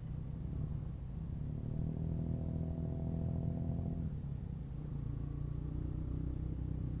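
Wind and engine rumble from a ride in traffic, picked up by an action camera's mic with a homemade wind-muff modification. About one and a half seconds in, an engine's pitch rises steadily, then cuts off suddenly about four seconds in as the throttle closes.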